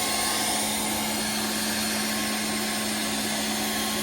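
TOAUTO A1X high-pressure PCP air compressor running with a steady motor and fan hum.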